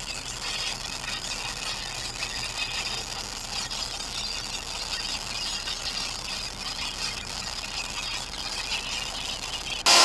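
Weird noises from an FM radio tuned to 90.7 FM: a steady, fluttering hiss-like noise, strongest in the upper range. A sudden loud burst of static comes right at the end.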